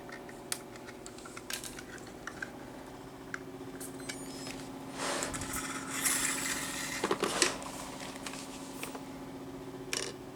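Scattered small clicks, taps and scraping from hands and tools working on a small RC helicopter's rotor linkages, with louder rustling stretches about halfway through, over a steady low hum.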